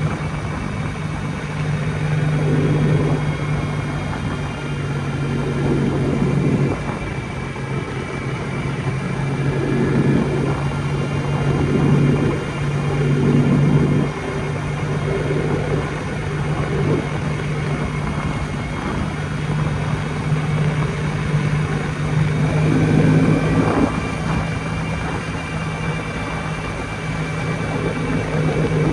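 Jawa 250 type 559's single-cylinder two-stroke engine running at a steady speed on a ride. Louder swells of noise come and go every few seconds.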